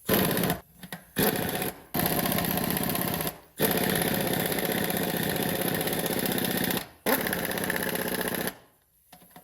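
A power tool run in several short bursts that start and stop abruptly, the longest about three seconds.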